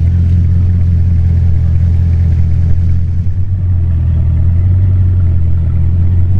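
Bugatti Chiron's quad-turbocharged W16 engine running at low speed as the car crawls away, a deep, steady drone with no revving.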